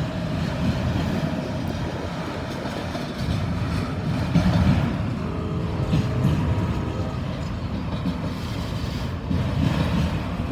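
Freight train of auto rack cars rolling past at close range, a steady rumble of steel wheels on rail.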